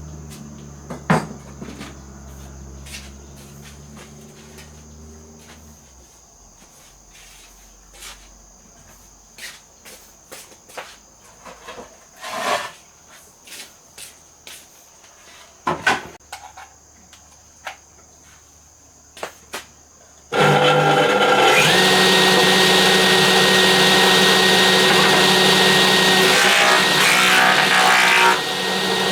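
Crickets chirring steadily under scattered knocks and clacks of tools and wood being handled, with a low hum that stops about six seconds in. About two-thirds of the way through, a power tool starts up and runs loudly and steadily to the end.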